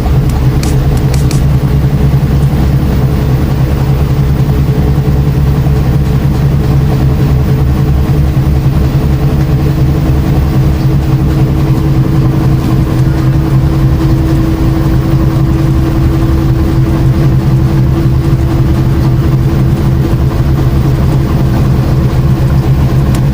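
Washing machine running: a loud, steady motor hum with a low drone and a higher tone that grows a little stronger midway.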